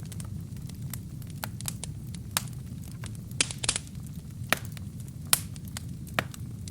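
Wood fire burning in a fireplace: a steady low rumble of flames with irregular sharp crackles and pops from the burning logs, a few louder snaps in the middle.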